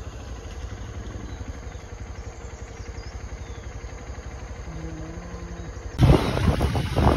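Motorcycle engine running steadily at low revs. About six seconds in it suddenly becomes much louder and rougher.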